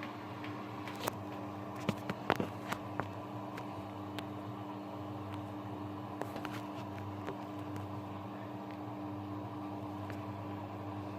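Grundig GWM4762 washing machine running with a steady electric hum, with scattered sharp clicks in the first three seconds, at the start of a rinse.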